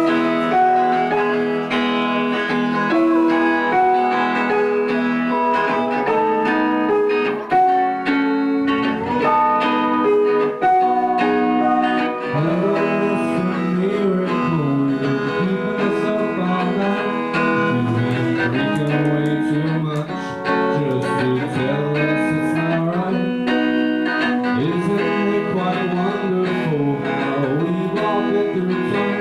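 Live band playing a guitar-led song, with a moving low line coming in about twelve seconds in.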